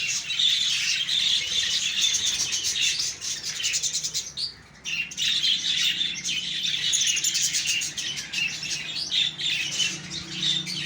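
A colony of budgerigars chattering and warbling continuously, many birds at once, with a brief lull about four and a half seconds in.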